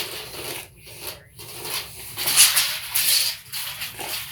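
Irregular rubbing and scraping noises that swell and fade several times.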